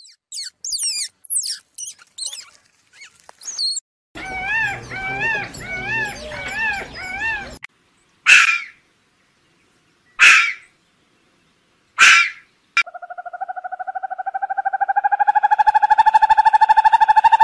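A series of different animal calls: quick high chirps, then a run of repeated warbling calls, three short harsh calls about two seconds apart, and finally a long, steady, pulsing call that swells and holds.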